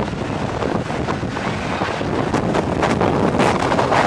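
Jet blast from a Boeing 757's engines at takeoff power, a loud, gusty rush of air buffeting the microphone.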